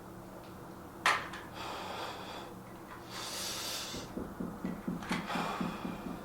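A sharp knock about a second in, then hard exhaling breaths during a dumbbell shoulder-press set. From about four seconds in comes a quick run of low pulses, about four a second.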